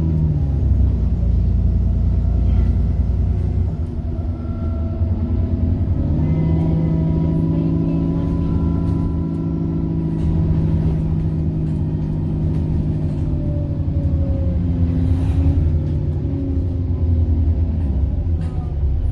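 Diesel bus engine of First South Yorkshire's 33712 running under load, with a steady high turbocharger whine over it. The engine note drops right at the start, then rises again about six seconds in as the bus pulls away, and holds.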